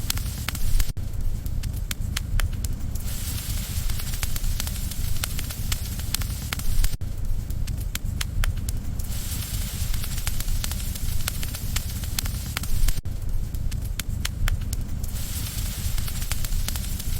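Wood bonfire burning, crackling with many sharp pops over a steady low rumble and hiss.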